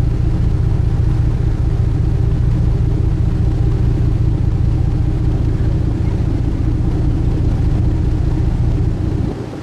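Steady low drone of a sightseeing boat's engines with a hum of a few steady tones, heard on board while under way.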